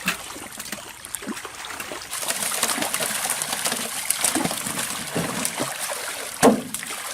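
Water splashing and trickling in a pond, with many small irregular splashes and one louder splash about six and a half seconds in.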